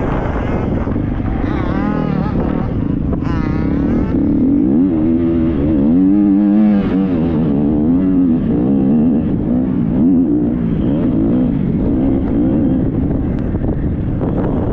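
Triumph 250 motocross bike's single-cylinder four-stroke engine being ridden hard, its pitch rising and falling over and over as the throttle is opened and closed.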